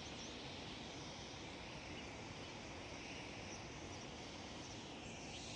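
Faint chirps of small birds over a steady, even rushing hiss of outdoor ambience.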